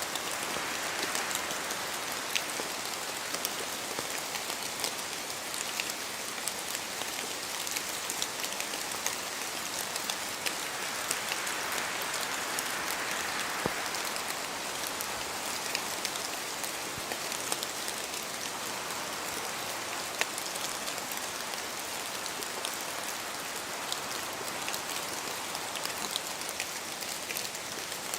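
Steady rain falling in a forest, with many scattered distinct drops falling from the trees. A gentle swell of wind rises and falls about twelve seconds in.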